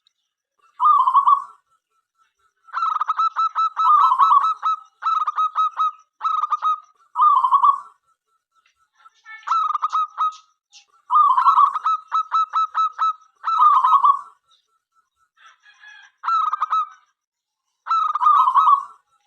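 Local zebra dove (perkutut) cooing: about ten phrases of rapid, rolling notes, each a second or so long, with short pauses between.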